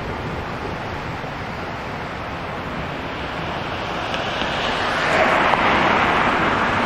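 Street traffic noise: a steady hum of road traffic, with a vehicle's tyre and engine noise swelling as it approaches and passes, growing louder from about four seconds in.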